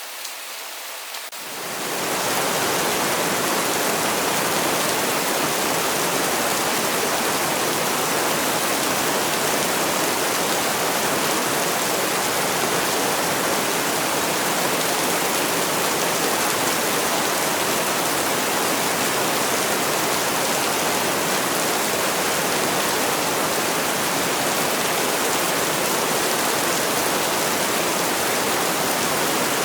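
Heavy rain falling in a dense, steady hiss. About a second and a half in, it swells from a lighter, thinner patter into a louder, fuller downpour.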